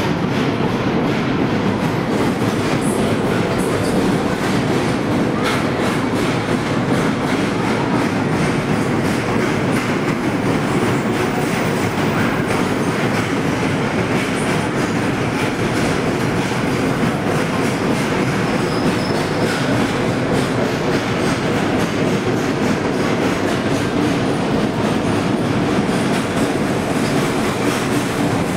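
Long rake of open gondola freight wagons rolling past at speed: a steady, loud rumble of steel wheels on rail with a continuous clatter of wheels over the rail joints.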